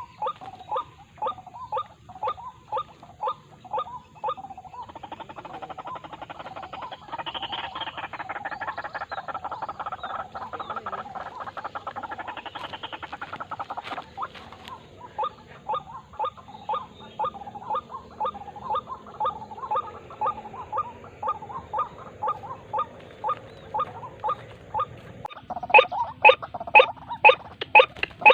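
White-breasted waterhen (ruak-ruak) calling: a harsh pitched note repeated about two to three times a second. The calls run together more densely in the middle and turn much louder near the end.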